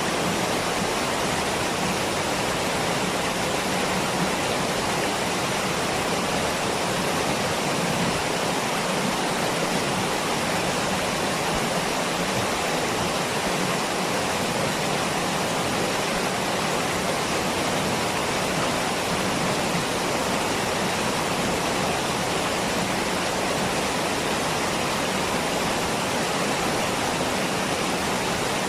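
Waterfall: water falling and rushing with a steady, even noise that does not change.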